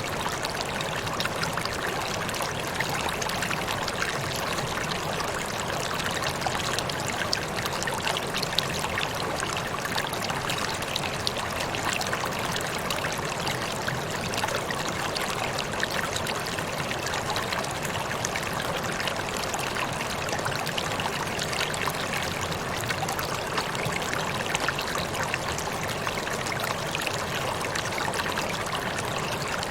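Waterfall water falling and splashing in a steady, dense rush, with small irregular splashes through it.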